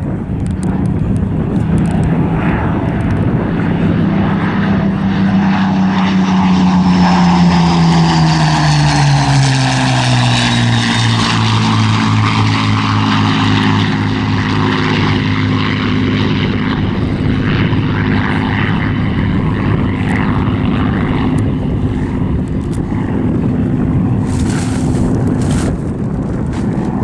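Spitfire's Rolls-Royce Merlin V12 engine on a flypast: a steady propeller-engine note that drops in pitch as the aircraft passes, about a third of the way in, then runs on at the lower pitch.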